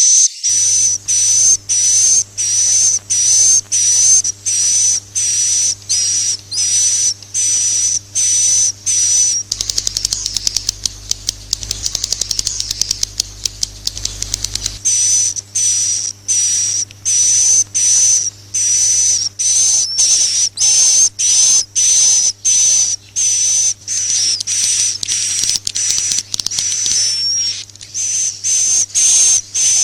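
Swiftlet roosting ('inap') lure call: high, short swiftlet chirps repeating about twice a second, broken in the middle by several seconds of rapid clicking trill, over a faint steady hum.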